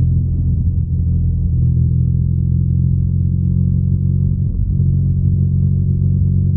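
BMW R nineT's air/oil-cooled boxer twin running at a steady speed: a low, even exhaust note with no change in revs.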